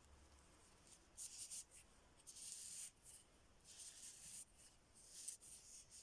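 Faint, intermittent scratching and rubbing in several short bursts, like hands working on small parts.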